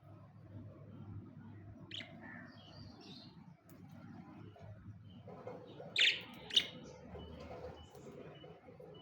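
Budgerigars chirping: one short chirp about two seconds in, then two sharp, louder chirps around six seconds in, with faint chatter between, over a low steady rumble.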